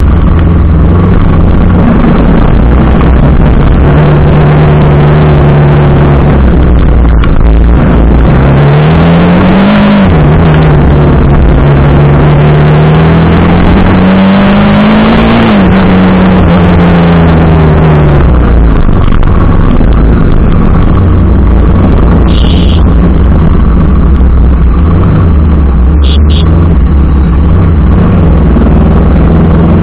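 TVS Apache RR 310's single-cylinder engine running under way, its pitch rising and falling as it accelerates and eases off, under heavy wind noise on the microphone. Two short high beeps come in the second half.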